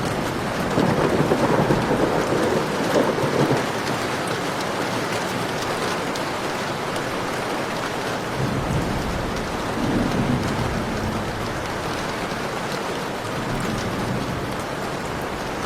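Heavy rain pouring steadily, with rolling thunder rumbling up about a second in and again around the middle.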